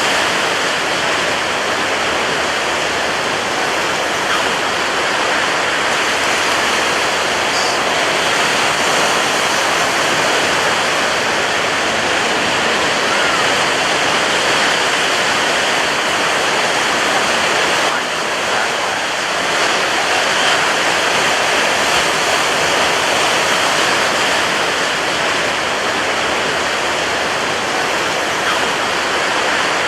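Ocean surf breaking on a beach: a dense, steady rush of waves with almost no rise and fall in loudness.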